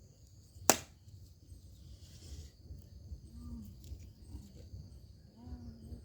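Steady high-pitched insect chirring, with one sharp click just under a second in.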